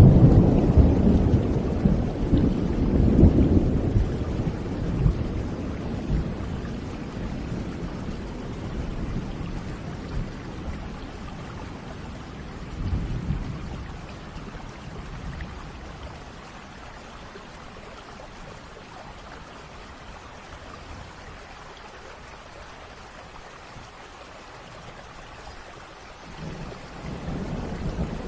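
Thunder rumbling over steady rain: a long low roll at the start that dies away over several seconds, a shorter rumble about halfway through, and another roll building near the end, with the rain's even hiss throughout.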